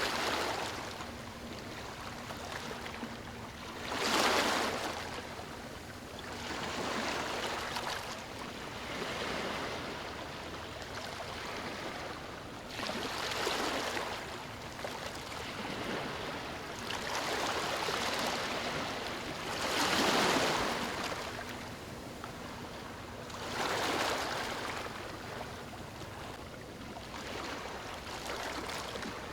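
Ocean waves breaking on a beach: steady surf wash with a louder wave crashing every few seconds, the biggest about 4, 13 and 20 seconds in.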